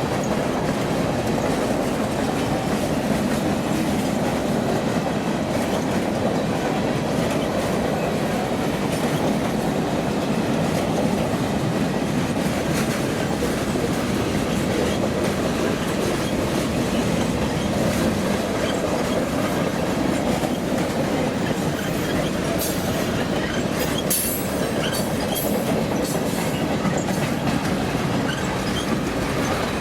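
A freight train's cars rolling past at steady speed: a continuous rumble and clatter of steel wheels on the rails, with a cluster of sharp, high clicks and squeaks about two-thirds of the way through.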